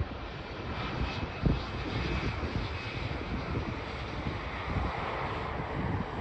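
Jet airliner's engines, a steady rushing roar with low rumble and a faint high whine in the first few seconds.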